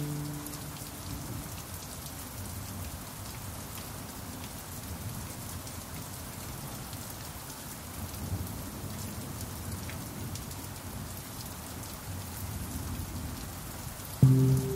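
Steady rain falling, with the ringing of a pan drum note fading away in the first second. A new pan drum note is struck sharply just before the end.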